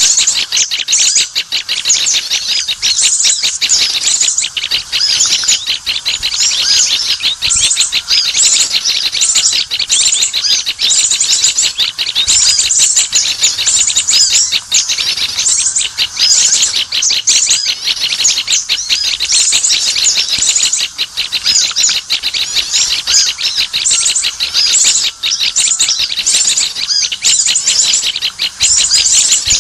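Many small birds chirping and twittering densely and without pause, high-pitched and loud: a lure call for attracting small birds.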